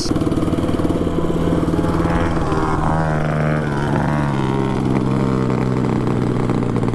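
Harbor Freight Predator 224cc single-cylinder four-stroke engine on a mini bike with a short straight-pipe exhaust, running hard at high revs and then gradually easing to a lower, steady speed.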